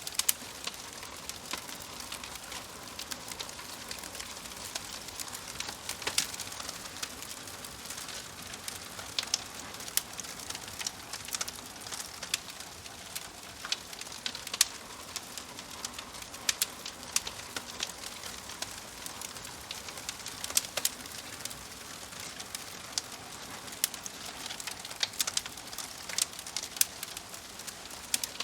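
Wood fire crackling in a fireplace: a steady hiss with frequent sharp, irregular pops and snaps from the burning logs.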